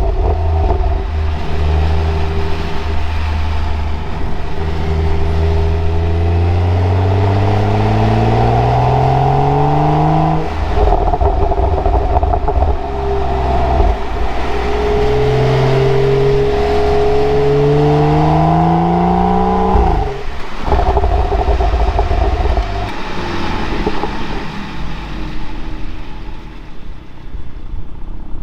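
BMW 435i's turbocharged straight-six with the factory M Performance exhaust, accelerating hard. The engine note climbs steadily, drops at a gear change about ten seconds in, climbs again, then falls off sharply about twenty seconds in and settles to a quieter steady run.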